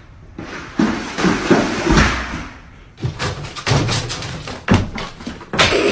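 A plastic laundry basket scraping and bumping with several dull thumps. After about three seconds comes a run of sharp knocks and clatters.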